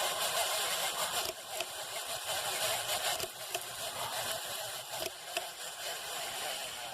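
Casablanca Delta II ceiling fan motor running without its blades, giving a steady hissing whir that marks its shot bearings.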